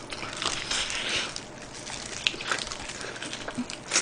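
Close-miked eating of sauce-glazed fried chicken: biting and chewing with irregular wet smacks and small clicks from the mouth.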